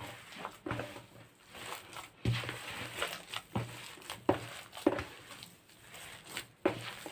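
Hands kneading a wet mixture of minced meat and rice flour in a bowl, making repeated squelching, slapping strokes about once a second.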